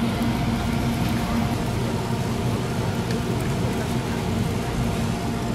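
Hotteok pancakes sizzling in oil on a flat iron griddle, a steady crackling hiss over a low steady hum.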